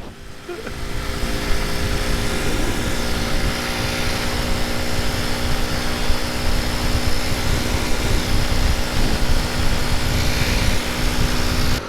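Motorcycle engine running at a steady speed, with wind rushing over the microphone.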